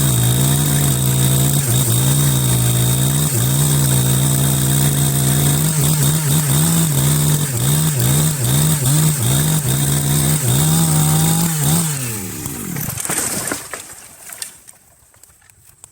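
Chainsaw engine running at high speed, its pitch dipping and recovering again and again, then winding down and stopping about thirteen seconds in.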